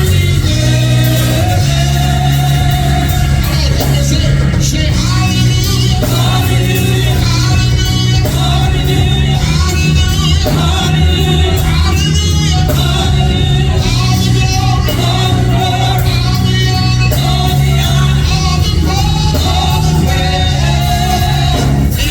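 Gospel worship song performed live: singing over instrumental backing with a heavy, continuous bass.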